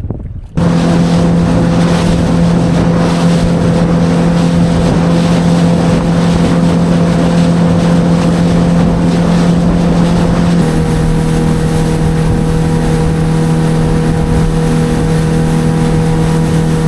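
Outboard motor of a small fishing boat running steadily at speed, with wind and water rush. It comes in abruptly about half a second in and its pitch shifts slightly about ten seconds in.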